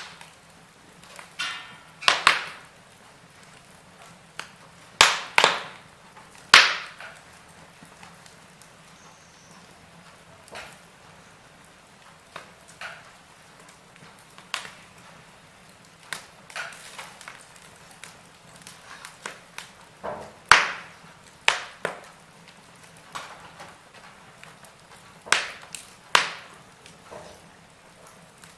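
Wood fire crackling, with irregular sharp pops and snaps, a few of them loud, over a faint low hiss of the burning.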